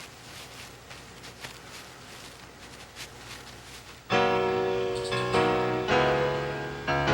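Faint hiss with a few soft clicks, then piano music starts suddenly about four seconds in, with notes and chords struck one after another, each ringing and fading.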